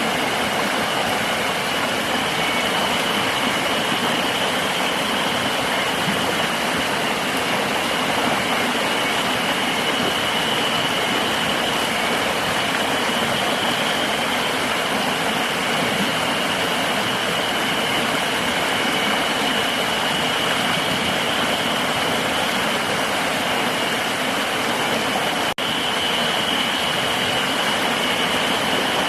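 River water rushing steadily, with a continuous high-pitched insect drone over it. The sound drops out for a split second about 25 seconds in.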